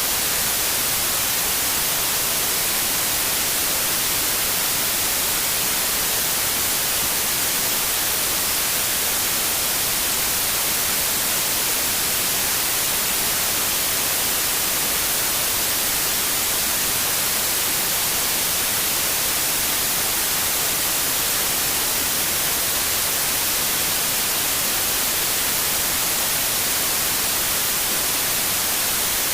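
White noise: a steady, even hiss with no change in level, brighter toward the high end.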